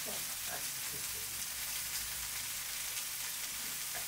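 Potato slices, tomato slices and meat patties sizzling as they fry on a large round pan over a wood fire, with a steady hiss.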